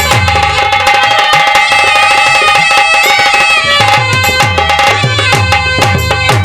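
Instrumental lead-in of a Haryanvi ragni: rapid hand-drum strokes, the low ones bending down in pitch, under a steady held melody.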